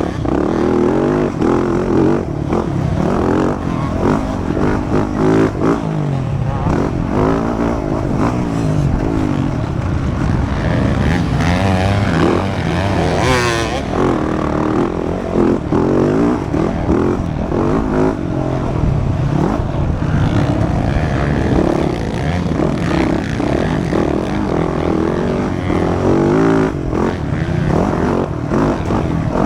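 Motocross dirt bike engines revving hard and dropping back over and over as the bikes accelerate, shift and brake around the track.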